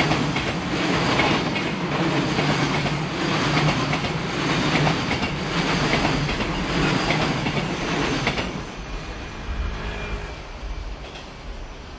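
Loaded Koki 104 container flat wagons of a freight train rolling past, their wheels clattering over the rail joints in a steady repeating rhythm. About eight or nine seconds in the last wagon goes by and the sound fades away.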